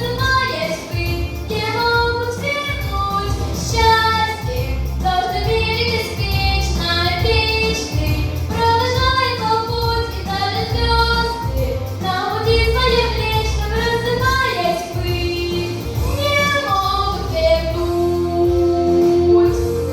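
A young girl singing a song over instrumental accompaniment with a steady bass line.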